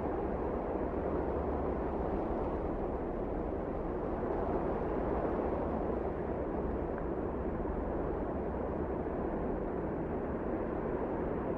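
Steady wind blowing, as in a snowstorm: an even, low rush with no single gust or event standing out.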